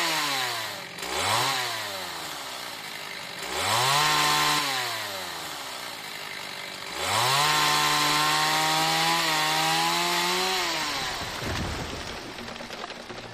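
Two-stroke chainsaw cutting bush and trees: the engine revs up to a high, steady note, then falls back to idle, several times over. It makes a short blip about a second in, a burst of a second or so near four seconds, and a long run of about three and a half seconds in the second half, before dropping away near the end.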